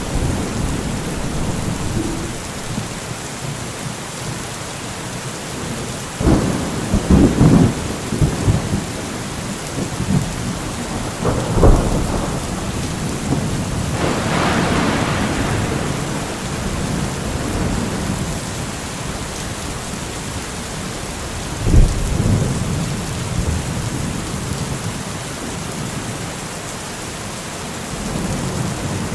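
Steady rain falling, with several rolls and cracks of thunder. The loudest come about six to eight seconds in and about twenty-two seconds in.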